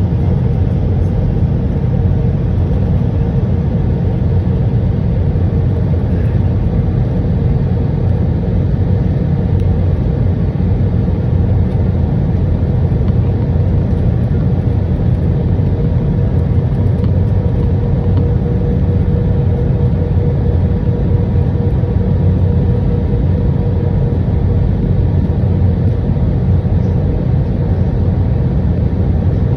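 Steady cabin rumble of an Airbus A319-100 airliner in flight, engine and airflow noise heard from a seat over the wing, with a faint steady hum above it.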